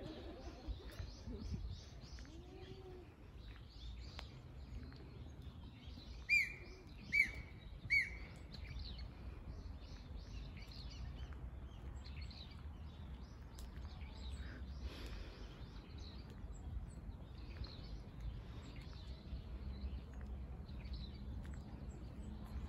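Wild birds chirping and calling, with three loud, short calls about a second apart around a third of the way in, over a steady low outdoor rumble.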